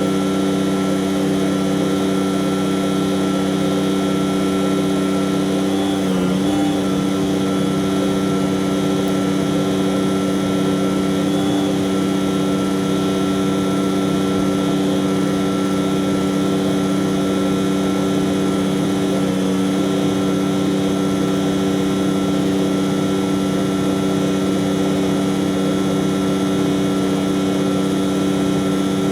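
Heavy tanker truck's engine running with a steady, unchanging drone.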